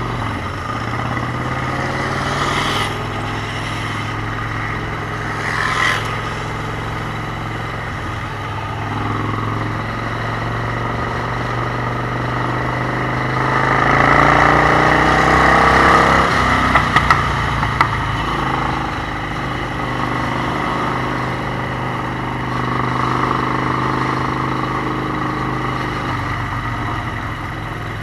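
Motorcycle engines running during a group ride: a steady engine note throughout, swelling louder for a few seconds past the middle as the engines pull harder, with a few short sharp ticks near the end of that swell.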